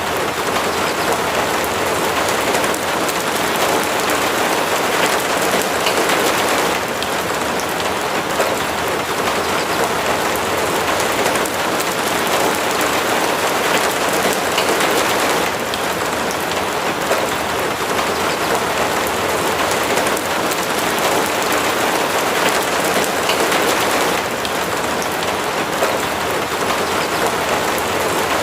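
Steady, heavy rain, a dense even hiss of falling drops whose texture shifts slightly about every eight or nine seconds.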